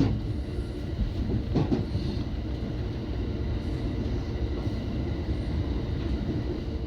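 Electric train running on the line, a steady low rumble of wheels and traction motors with faint steady tones above it.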